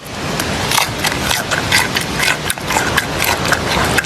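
Giant panda chewing: a steady run of crunching bites, about three a second.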